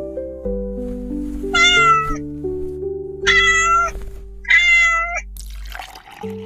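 A cat meowing three times, each meow short, over steady background music. A short burst of hissy noise follows near the end.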